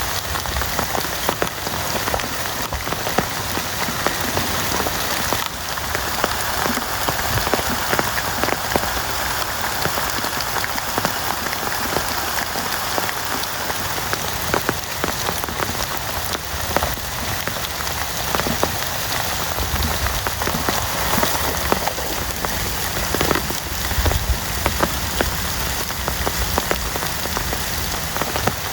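Heavy rain falling steadily, with many close drops landing as sharp ticks. A few low rumbles come through around two-thirds of the way in.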